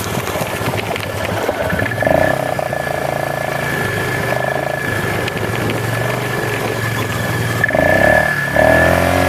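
Off-road vehicle engines running with a steady low note, rising in several short revs, the last near the end gliding up and down in pitch. A thin steady high tone runs throughout.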